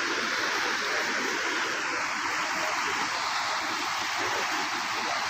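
Floodwater from an overflowing canal flowing fast across a road, a steady rushing of water with no let-up.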